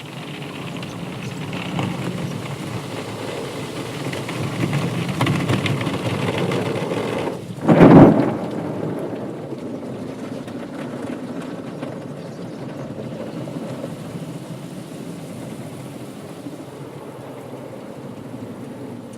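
Automatic car wash working over a car: a steady rush of water spraying and drumming on the body that builds over several seconds, with one loud, short thump about eight seconds in, then an even rushing wash.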